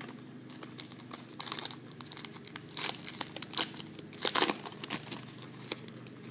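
Foil wrapper of a trading-card pack crinkling in the hands, with irregular crackles and short tearing sounds, the loudest about 3 and 4.5 seconds in.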